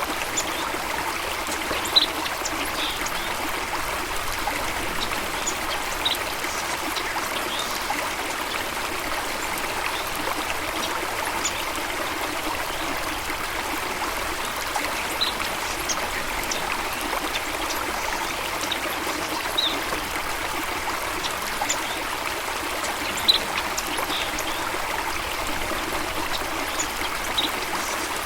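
Running water trickling steadily, with brief high clicks scattered through it, the sharpest about two seconds in and again near the end.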